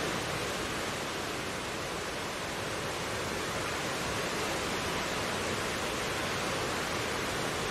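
Mountain stream rushing over rocks: a steady, even water noise with no change.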